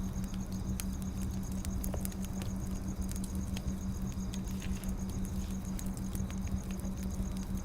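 Firewood burning, with irregular small crackles and pops over a low rumble and a steady low hum.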